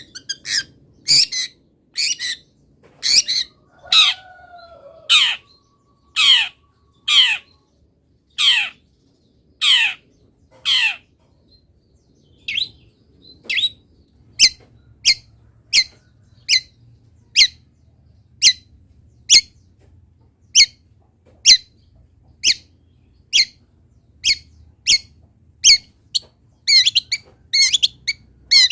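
Long-tailed shrike (cendet) calling loudly in a harsh, repeated series, about one squawk a second, each note sweeping downward. After a short pause, shorter and sharper notes follow at the same pace. This is part of its song, which is filled with imitations of wild birds.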